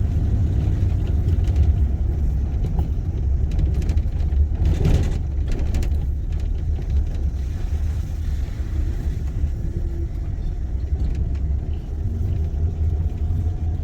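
Road noise heard from inside a moving car: a steady low rumble of engine and tyres, with a brief louder swell about five seconds in.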